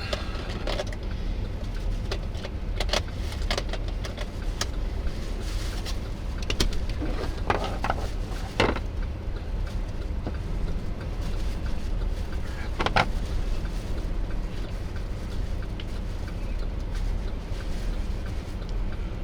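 Steady low rumble of a vehicle driving, heard from inside, with a few scattered clicks and knocks.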